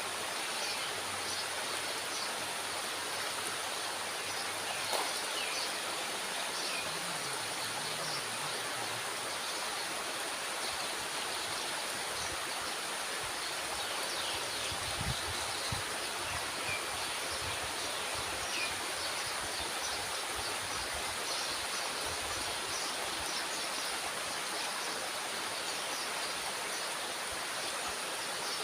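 Steady rush of water pouring through a dam's sluice gate, with faint high chirps over it and a few low thumps near the middle.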